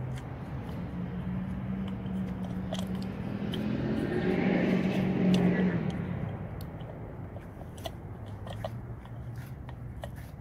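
Steady low engine hum with scattered small clicks and knocks, while a vehicle passes, swelling to a peak about five seconds in and fading away.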